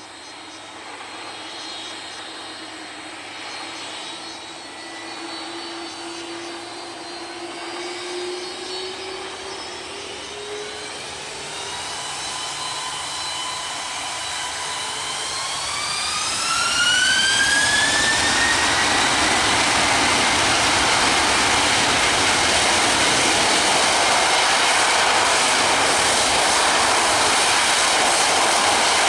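Jet airliner's engines spooling up to takeoff thrust: a whine climbs in pitch about halfway through, and the sound then settles into a loud, steady jet noise.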